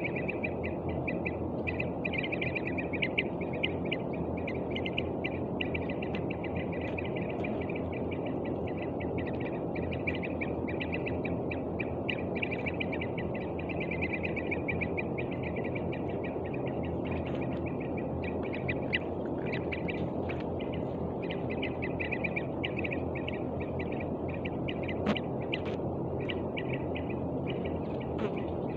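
A frightened young bird calling in rapid, repeated notes without pause, over a steady low rumble of noise.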